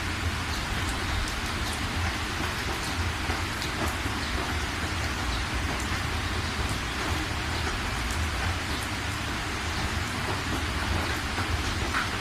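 Steady rain falling: a dense, even hiss with scattered sharp drop ticks, over a constant low rumble.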